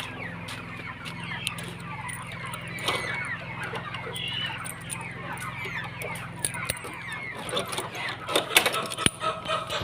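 A flock of chickens clucking and calling, many short overlapping calls, over a steady low hum. A few sharp knocks near the end.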